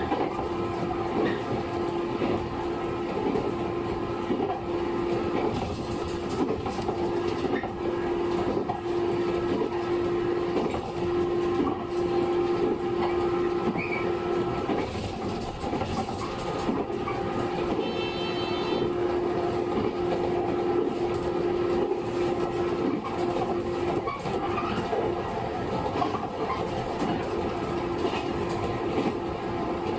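A JR 115 series 6000-subseries electric train running at speed, heard from on board. A steady motor and gear hum drops out briefly twice, and the wheels clatter over rail joints. A short high tone sounds about 18 seconds in.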